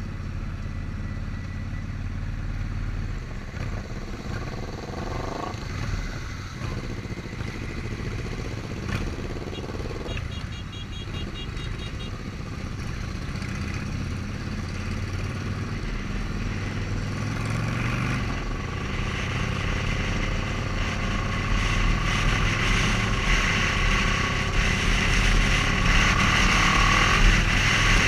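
Motorcycle engine running on the move, its pitch climbing in several rises as it accelerates through the gears. Wind rush grows louder with speed over the last ten seconds or so.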